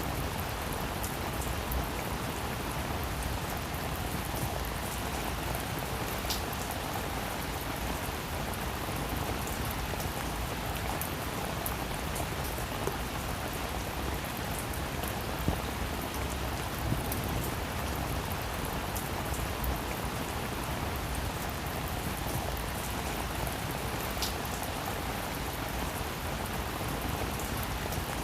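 Steady rain falling on a roof: an even hiss dotted with many small drop taps, and a few louder single drips standing out.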